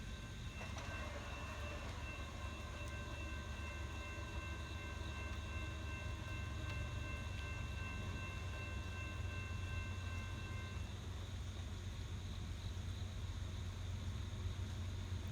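A freight train rumbling low and steady. Several steady high tones sound together over it and cut off about eleven seconds in.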